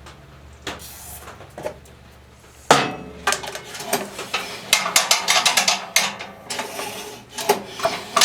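Quiet shop hum, then a sharp knock about a third of the way in, followed by a quick run of metallic clinks and knocks from handling tools and parts on the chipper shredder.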